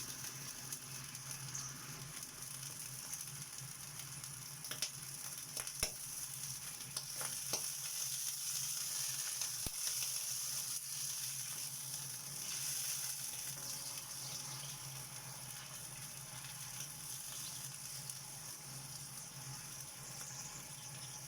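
Hot dogs sizzling in a frying pan with a little water in it: a steady frying hiss, with a few light clicks about five to ten seconds in.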